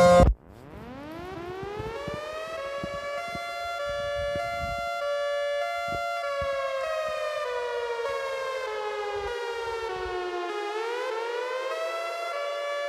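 Tornado warning siren winding up from a low pitch to a steady tone over about three seconds. It holds, then slowly falls in pitch and rises again near the end.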